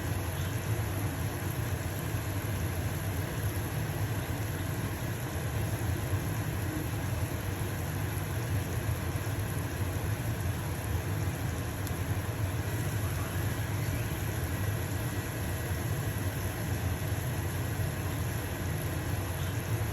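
Stove-top range hood fan running with a steady low hum, over the even hiss of a pancake sizzling in a frying pan.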